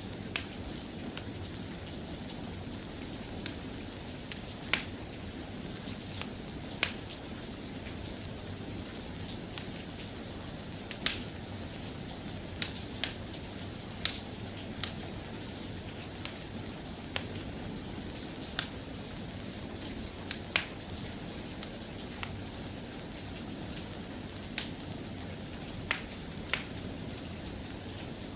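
Steady soft rain, with sharp irregular pops scattered through it, about one a second.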